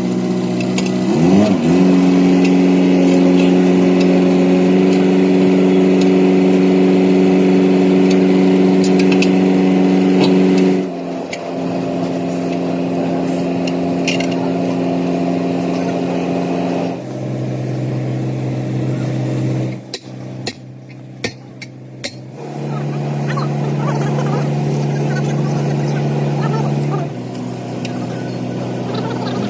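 An engine running at steady speed, rising in pitch once about a second in, then holding. Its pitch and loudness step abruptly a few times, with a brief quieter stretch and a few sharp clicks about two-thirds of the way through.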